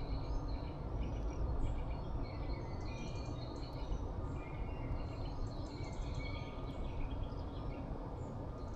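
Several songbirds at a feeder chirping in quick, overlapping short calls, over a steady low rumble of background noise.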